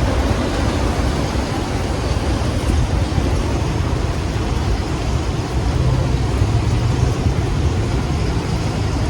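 Strong storm wind blowing and buffeting the microphone: a steady, loud rushing noise with a deep rumble underneath.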